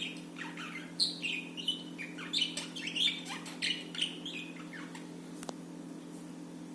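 Budgies chirping and warbling in a quick run of short, pitch-jumping notes, which stop about five seconds in, over a steady low hum.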